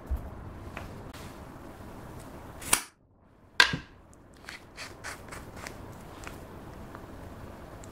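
Clear slime being squeezed and kneaded, its trapped air pockets popping: two sharp, loud pops about a second apart, then a scatter of smaller clicks.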